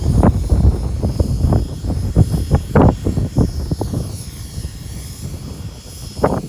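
Radio-controlled helicopter flying in strong, gusty wind: a faint high rotor and motor whine that rises and falls in pitch, under heavy wind buffeting that eases in the second half.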